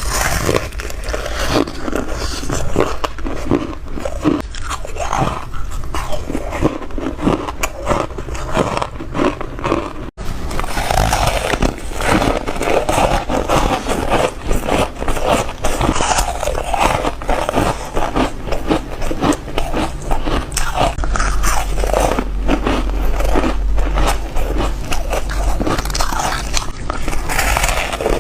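Foam ice being bitten and chewed close to the microphone: a dense run of crisp crunches, with a momentary gap about ten seconds in.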